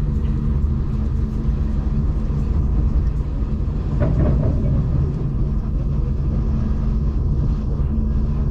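V/Line diesel passenger train running, heard from on board: a steady low rumble with an even engine drone, and a brief louder rattle about four seconds in.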